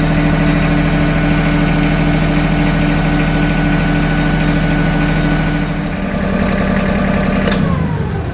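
Compact tractor's small Mitsubishi diesel engine idling steadily after a cold start. About six seconds in the tone shifts; a click follows near the end and the engine winds down as it is shut off.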